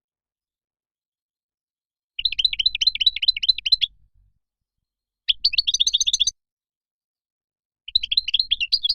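European goldfinch song: three bursts of rapid, twittering trills, each lasting one to two seconds, with silence between them.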